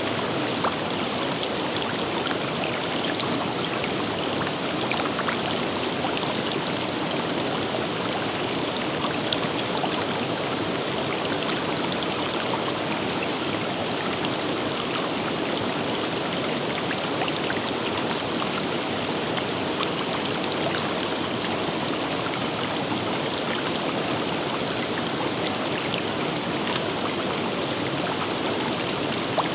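A forest river flowing: a steady rush of water with many small splashes and trickles.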